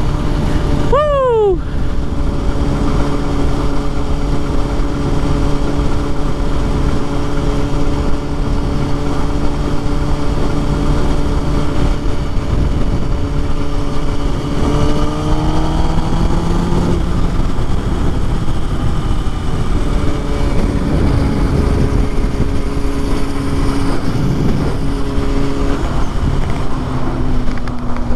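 Kawasaki ZX6R inline-four sport-bike engine running under way, with wind rush on the microphone. The revs drop sharply about a second in, hold steady, climb around the middle, then settle again.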